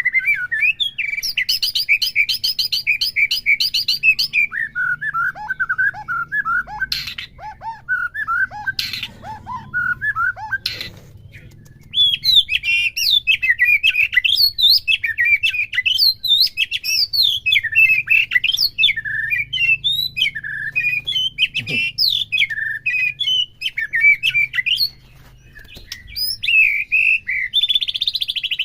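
White-rumped shama (murai batu) singing a long, varied song: a run of fast repeated notes, then slower lower whistles, then rapid changing phrases, ending in a fast buzzy trill. It is the full, loud song a stimulation recording of the species is meant to provoke in other shamas.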